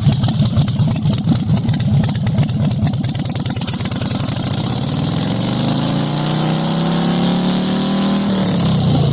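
Motorcycle engine under way, its firing pulses lumpy at first; about halfway through the pitch climbs steadily as the bike accelerates, then drops near the end as the throttle comes off. Wind hiss on the microphone throughout.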